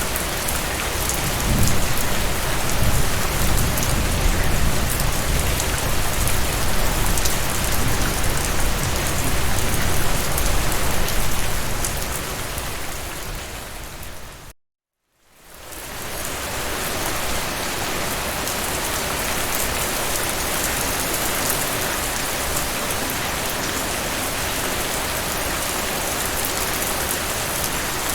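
Steady heavy rain falling on a surface, with a deep low rumble under it through the first half. About fifteen seconds in, the rain fades out to a moment of complete silence, then fades back in and carries on steadily.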